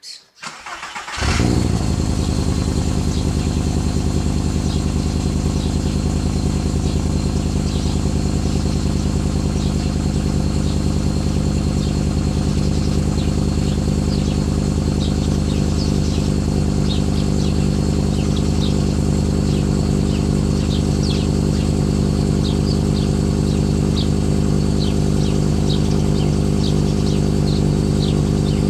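Volkswagen Golf Mk4's 2.3-litre V5 engine on a cold start: a brief crank, catching about a second in with a short flare in revs, then settling into a steady idle.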